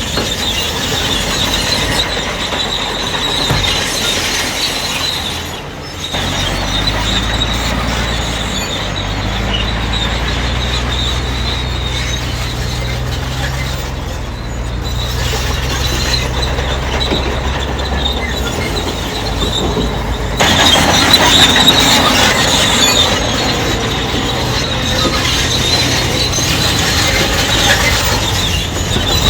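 Crawler bulldozer at work, its steel tracks squealing and clanking over a steady diesel engine. The sound gets louder about two-thirds of the way through.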